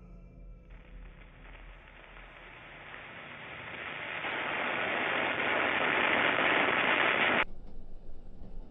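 Rushing noise effect that swells steadily louder for several seconds, then cuts off abruptly near the end, over a faint low hum.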